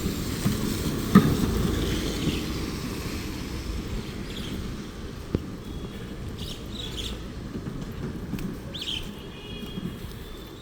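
Low, steady road-traffic rumble with a few birds chirping and whistling, mostly in the second half.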